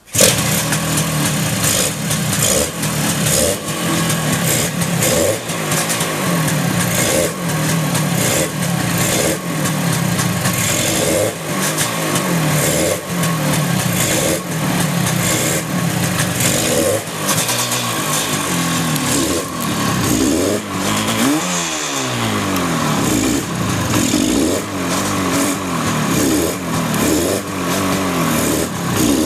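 Yamaha RX350 two-stroke parallel-twin motorcycle engine kick-started and catching at once, then running with the throttle blipped so the revs rise and fall; a little past twenty seconds in the revs drop and swing back up.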